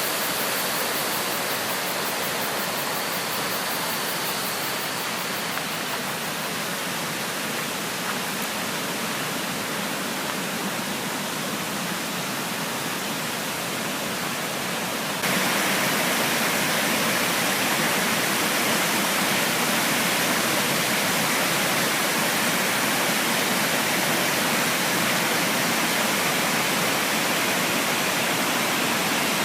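Creek water rushing in a steady, even noise, which steps up suddenly to a louder rush about halfway through.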